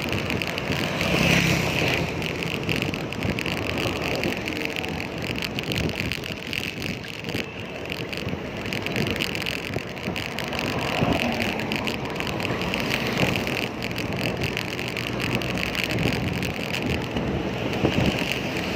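Traffic and road noise with wind buffeting the microphone, heard from a moving bicycle.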